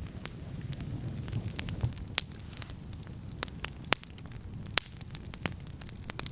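Wood campfire crackling, with sharp pops at irregular intervals, several of them loud, over a low steady rumble.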